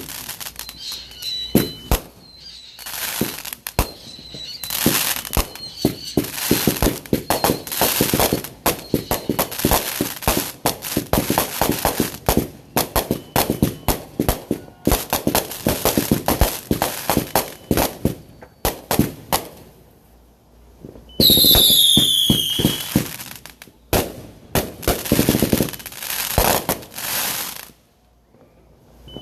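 Backyard consumer fireworks going off in volleys of rapid crackling pops and bangs. About 21 seconds in comes a loud whistle that falls in pitch, followed by more crackling.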